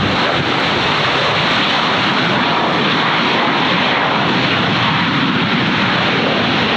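Airliner's jet engines, a loud, steady rush of noise with no change in pitch.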